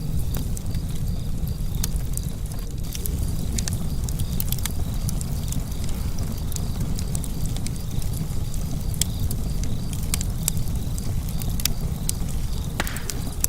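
Fireplace fire burning with a steady low rumble, crackling with many sharp, irregular pops.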